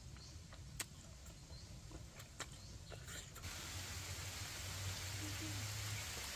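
Close-up chewing of grilled squid: a handful of sharp, wet mouth clicks and smacks. About three and a half seconds in, a steady hiss takes over.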